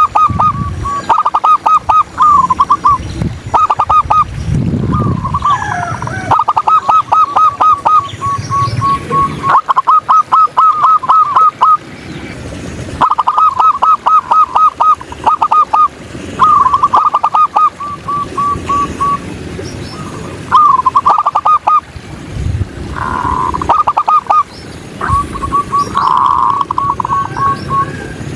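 Zebra doves cooing: bouts of quick staccato notes every few seconds, some phrases ending in a few drawn-out notes, over a low background rumble.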